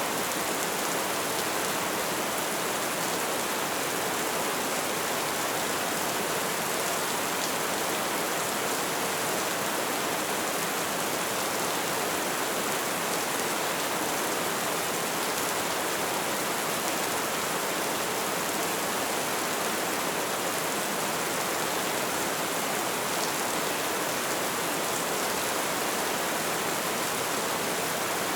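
Light rain falling steadily, an even hiss of drops on a surface with faint individual drop ticks.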